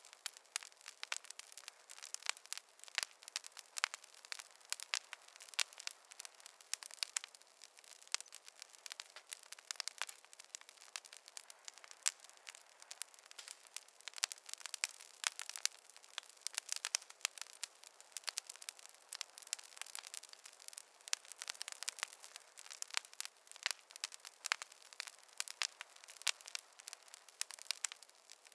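Wood fire crackling: a dense, irregular run of small pops and snaps, with no low rumble of flame underneath.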